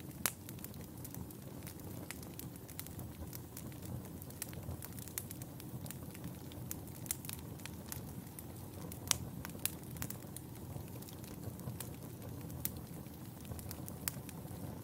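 Wood fire in a fireplace burning steadily: a low rumble and hiss with irregular sharp crackles and pops, the loudest just after the start and about nine seconds in.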